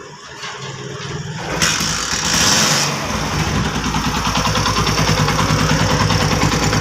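Freshly rebuilt Chinese motorcycle engine catching about a second and a half in, running up briefly, then settling into a steady idle with an even, rapid pulse. The tappets are loose and are making noise.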